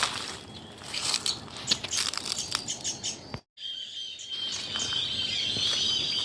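Forest birds chirping and calling. About three and a half seconds in the sound cuts out for a moment, then a steady high insect drone sets in, with bird calls wavering above it.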